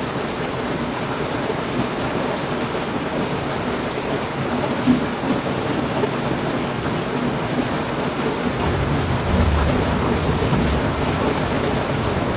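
Heavy rain falling steadily, with a low rumble of thunder coming in about two-thirds of the way through.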